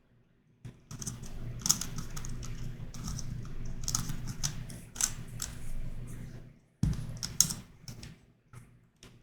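Plastic pieces of a YuXin Corner Helicopter 2x2 puzzle clicking and clacking as it is turned in quick runs, with one sharp louder click about two-thirds of the way through and sparser turns after it.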